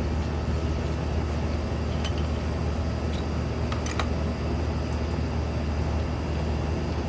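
Steady low rumble of roadside background noise, with a few faint light clicks about two and four seconds in.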